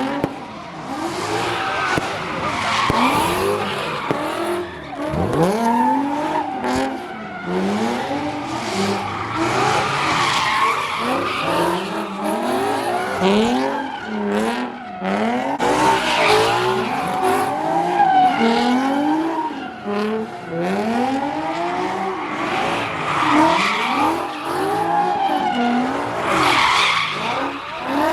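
Cars doing burnouts and donuts: engines revving up and falling back over and over, overlapping, with tires screeching.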